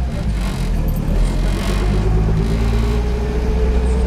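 Peugeot 203's four-cylinder petrol engine pulling the car along at low speed, heard from inside the cabin as a steady low rumble. A whine sets in about a second and a half in and slowly falls in pitch.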